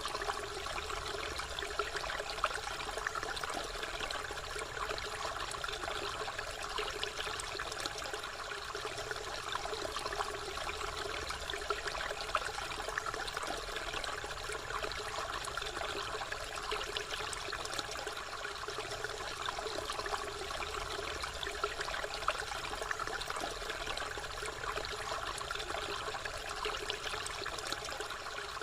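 Water pouring steadily from a spout and splashing, an even trickle and patter that never changes.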